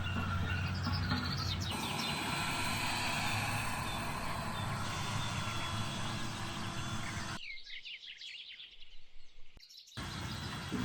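Small birds chirping over a steady low rumble of farm machinery working a nearby field. About seven seconds in, the rumble drops away for a couple of seconds, leaving mostly the birdsong.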